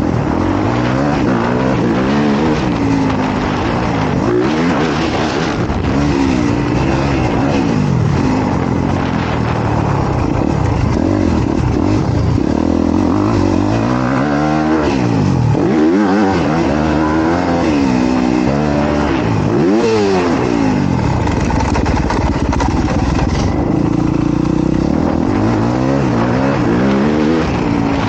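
Dirt bike's single-cylinder four-stroke engine, a 2023 Honda CRF250R, being ridden hard, its pitch repeatedly rising and falling with throttle and gear changes.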